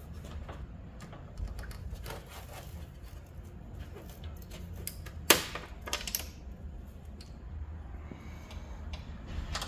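Plastic clicks and rattles of a car headlight assembly being worked loose from its mounts and handled, with one sharp snap about five seconds in as it comes free, followed by a few lighter clicks.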